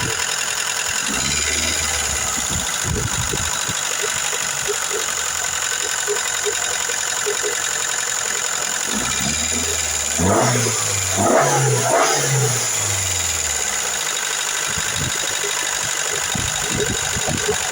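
Car engine idling with the ticking of noisy hydraulic lifters. A few short, louder bursts come about ten to twelve seconds in.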